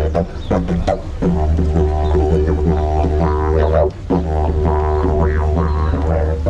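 Didgeridoo playing a steady low drone with shifting overtones above it. The drone breaks off briefly a few times, most clearly about four seconds in.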